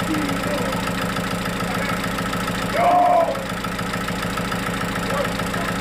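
Sawmill engine running steadily at idle, with a brief louder tone lasting about half a second about three seconds in.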